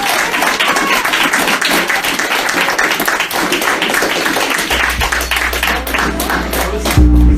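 Harsh-noise collage: dense, loud crackling noise of many fine clicks, like applause. A low steady hum joins it about five seconds in, and a brief loud low buzz sounds near the end.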